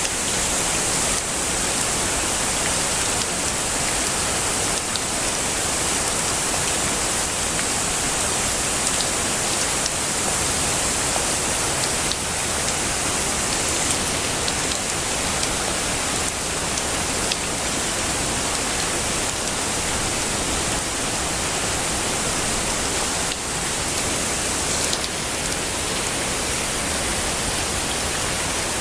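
Heavy rain falling steadily: a dense, even hiss that is brightest in the high end, with a few faint drop ticks.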